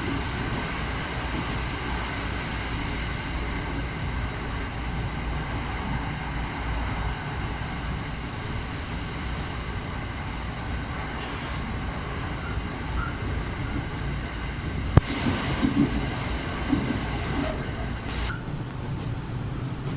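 Steady rumble of a moving train, heard from on board. About fifteen seconds in there is a sharp click, followed by a couple of seconds of hiss.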